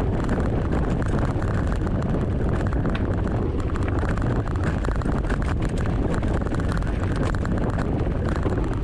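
Wind buffeting the microphone of a handlebar-mounted camera on a moving mountain bike, a steady low rushing noise, with tyre rumble and small rattles from riding over a bumpy trail.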